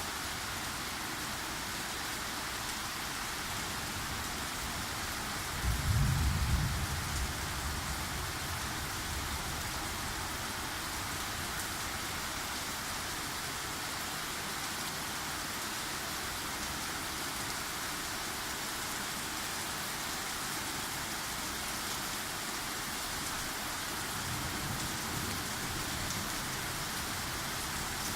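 Steady rain falling throughout a thunderstorm, with one short, low rumble of thunder about six seconds in.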